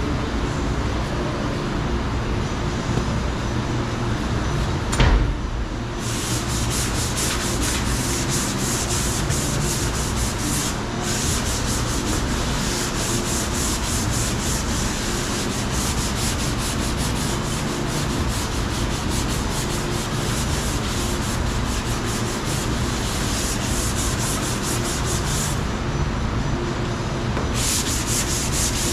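Sanding of cured Bondo body filler on a car's quarter panel: a continuous scratchy rasp. It breaks off briefly with a knock about five seconds in, and pauses again shortly before the end.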